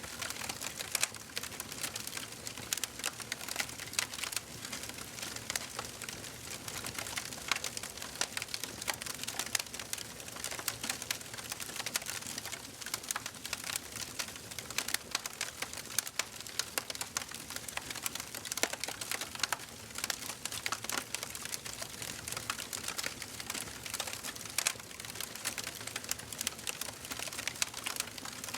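Wood fire crackling in a fireplace: dense, irregular pops and snaps over a steady soft hiss.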